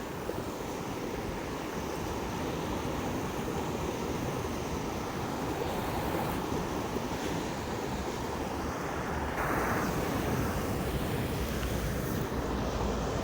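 Steady rushing outdoor noise with no distinct events, a little louder from about nine and a half seconds in.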